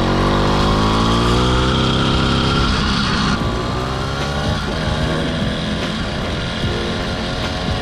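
Chinese 80cc two-stroke motorized-bicycle engine revving, its pitch climbing over the first two seconds, then easing off about three seconds in to a lower, rougher running.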